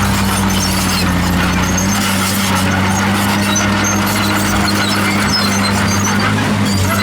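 Komatsu D51PX crawler bulldozer working: its diesel engine runs steadily while the steel tracks give off repeated high metallic squeaks.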